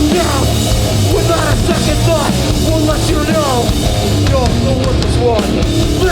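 Hardcore band playing live, a full band with drums, between vocal lines.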